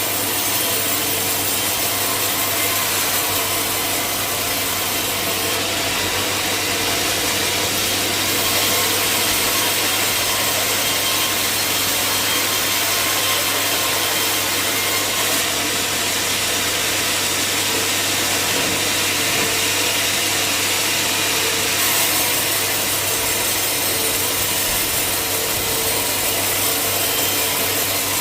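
Sawmill saw running steadily through a log, a continuous high hiss of blade cutting wood over a steady machine hum.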